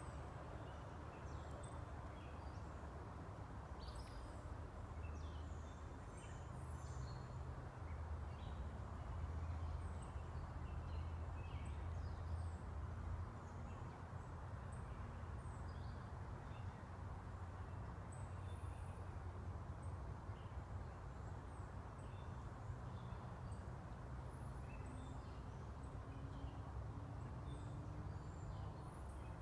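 Songbirds chirping in woodland, many short calls scattered throughout, over a steady low rumble that swells a little partway through.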